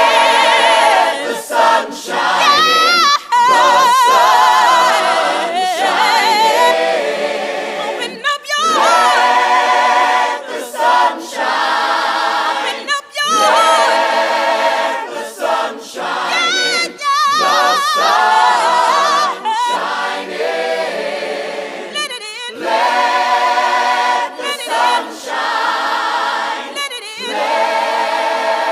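Choir singing without accompaniment, with strong vibrato on held notes, in phrases separated by short breaths.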